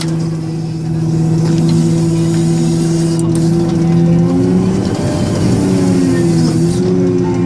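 Caterpillar 990H wheel loader's diesel engine running at high revs with a steady drone. About five seconds in, the pitch wavers and settles slightly higher as the load on the engine changes.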